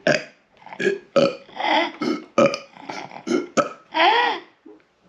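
A woman burping over and over on purpose: a quick string of short burps, then one longer burp near the end whose pitch wavers up and down.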